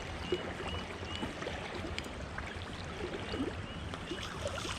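Faint water sounds around a small boat, with a few light irregular clicks and several short high chirps.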